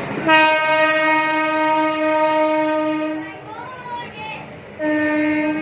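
Train horn blowing two steady blasts at one pitch: a long one of about three seconds, then a short one near the end. A child's voice calls out in the gap between them.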